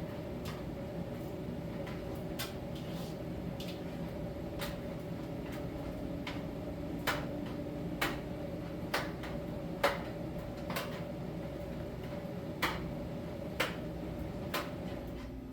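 Miele T1 heat-pump tumble dryer running in its drying phase: a steady hum with a constant mid-pitched tone. Over it come irregular sharp clicks and knocks, about one a second, as the load tumbles in the rotating drum.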